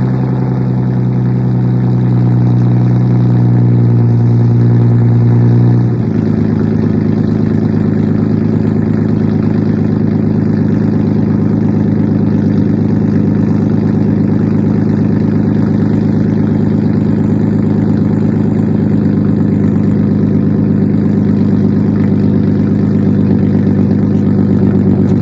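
Nissan 370Z's 3.7-litre V6 idling steadily through a straight-piped, muffler-less, catless single-exit exhaust. The exhaust tone changes abruptly about six seconds in, then holds steady.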